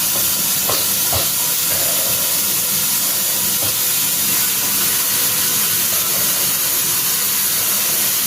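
A faucet running steadily, water pouring into a container with an even hiss: cold water being added to cool down water that is too hot.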